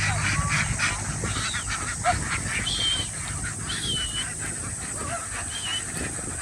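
A flock of farmed ducks quacking and calling together, a dense chatter that thins out after about three seconds. A few high, thin calls sound over it.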